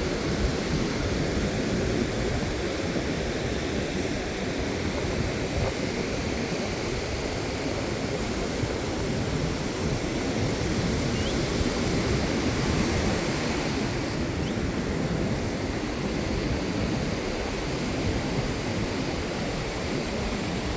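Ocean surf on the beach, a steady wash of noise with no distinct breaks.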